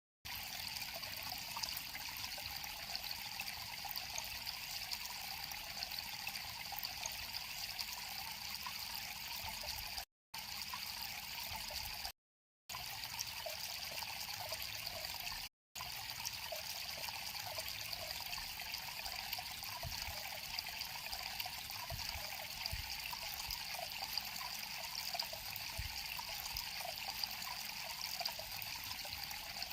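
River water trickling and flowing steadily over stones, with the sound cutting out to silence three times for a moment, about a third and halfway through.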